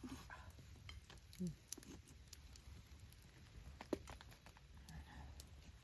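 Wood campfire crackling faintly, with scattered small pops and snaps over a low steady rumble; the sharpest snap comes about four seconds in.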